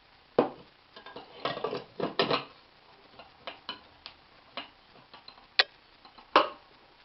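Small hard clicks and knocks of metal kitchenware being handled, likely the parts of a Bialetti Moka Crem stovetop coffee maker. A cluster of rattling knocks comes about one and a half to two and a half seconds in, then lighter ticks, then two sharp clicks near the end.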